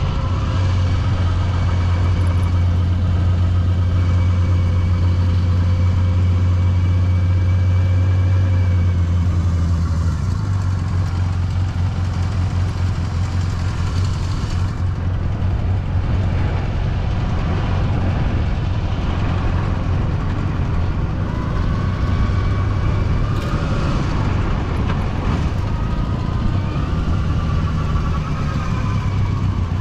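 Yamaha FZR250's four-cylinder engine running while riding. A steady low drone holds for about the first ten seconds, then turns rougher, with the engine pitch rising and falling later on.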